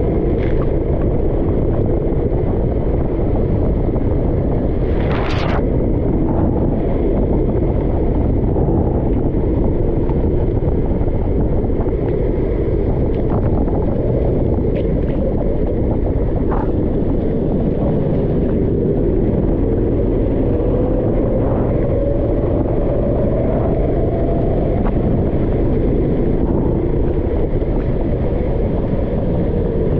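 Go-kart engine running with a steady low rumble of noise; about two-thirds of the way in its pitch rises slowly for several seconds as it picks up speed.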